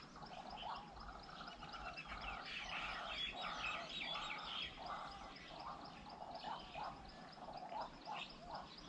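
Several birds calling and chattering over one another in short, broken notes, busiest a few seconds in, with a faint, fast, even pulsing high above.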